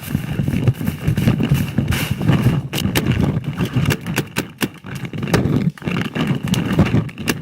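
Close rustling and irregular thudding of footsteps on the forest floor, with scattered sharp knocks and clicks of gear handled near the microphone.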